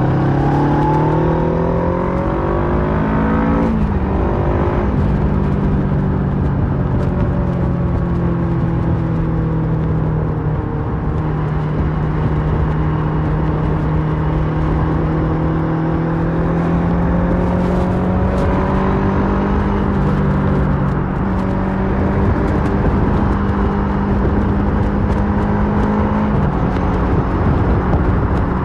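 2008 Kawasaki Versys 650's parallel-twin engine through a Mivv slip-on exhaust, under way. It revs up for about three seconds and drops sharply at an upshift, then holds a steady cruising note that climbs slowly, dropping again near the end. A constant low rush of wind and road noise runs underneath.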